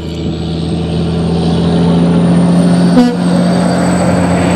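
A vehicle's engine running with a steady low hum that slowly grows louder, with a faint high whine over it. A single short knock about three seconds in.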